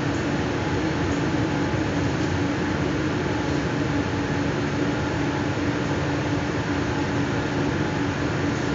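Steady running noise heard inside a moving electric commuter train carriage: wheels on the rails with a constant low hum.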